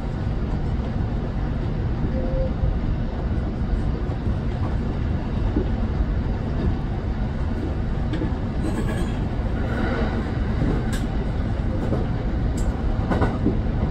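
Kintetsu electric train running along the line, heard from inside the leading car: a steady rumble of wheels on the rails, with a few sharp clicks in the second half.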